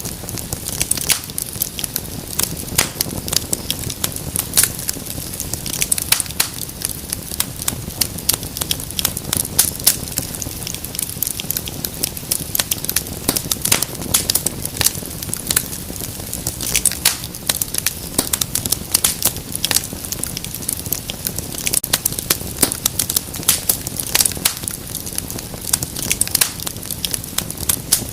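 Wood fire in a fireplace crackling, with many irregular sharp pops and snaps over a soft steady rush of flame.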